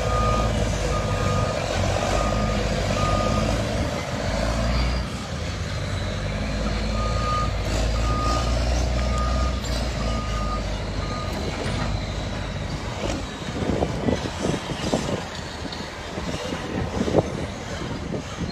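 Heavy demolition machinery running with its reversing alarm beeping steadily, about two beeps a second, stopping after about three seconds and starting again midway. Near the end the engine drops back and a run of knocks and clatters follows, the loudest about a second before the end.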